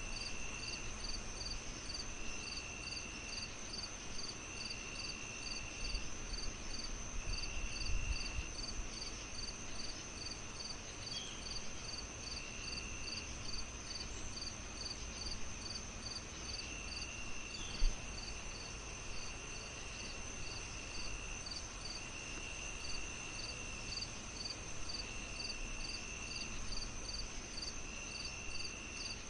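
Crickets chirping in a steady chorus: a short chirp about twice a second, a continuous high trill, and a lower trill lasting a second or so every few seconds. Underneath is an even hiss and low rumble, with one sharp pop about two-thirds of the way through.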